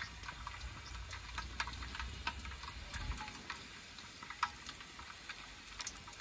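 Garlic frying in a hot pan: irregular crackles and pops over a faint low rumble.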